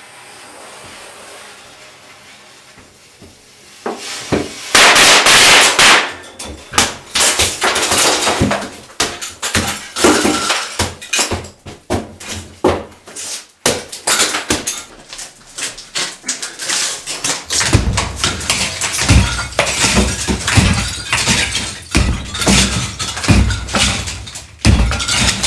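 A torch hissing faintly, then a loud blast about five seconds in, followed by a long run of crashing and breaking, with glass-like smashing and heavier low thuds in the last several seconds.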